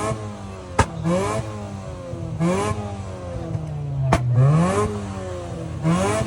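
A car engine revved in four quick blips, each rising in pitch and falling away, with a hiss at the top of each rev. Two sharp cracks come between the revs, one about a second in and one about four seconds in.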